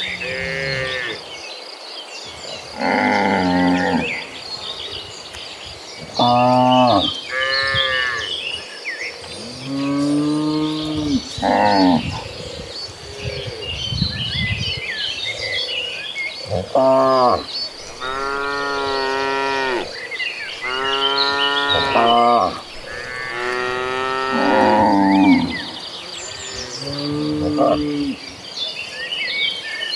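A herd of cattle mooing: about a dozen long calls, one after another and sometimes overlapping, the thickest run coming in the second half. A steady high tone and small chirps run underneath.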